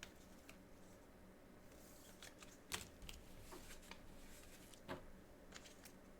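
Faint handling of trading cards and their packaging: soft rustling with a few light clicks and taps, the loudest nearly three seconds in and again about five seconds in.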